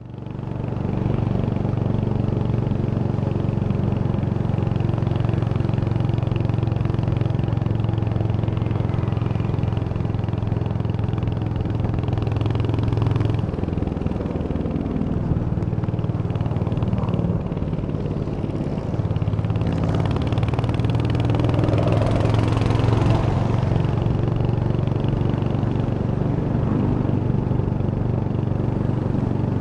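Royal Enfield Hunter 350's single-cylinder engine running steadily, heard up close. It fades in over the first second, and its note shifts a couple of times, about 13 and 19 seconds in.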